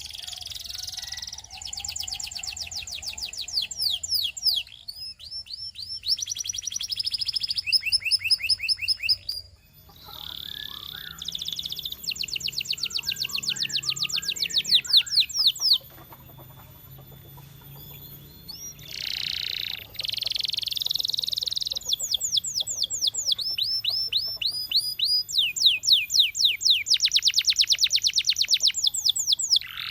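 Domestic canary singing: fast trills of one high note repeated many times a second, switching every second or two to a new note and speed, with a quieter gap a little past the middle.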